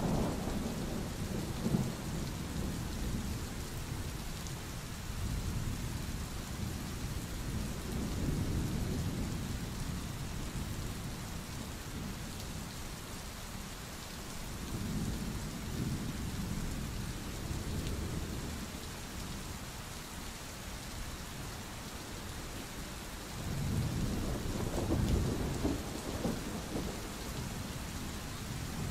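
Steady heavy rain falling, with low thunder rumbling in slow swells about three times.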